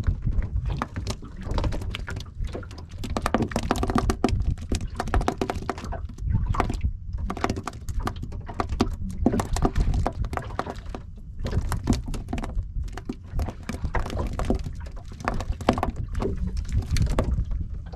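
Irregular knocks, clicks and thuds of handling on a small fishing boat, over a steady low rumble.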